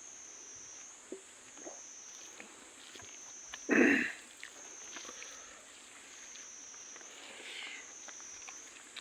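Close-up eating sounds: soft chewing clicks, with one loud short bite or slurp about four seconds in. A faint high wavering whine runs underneath.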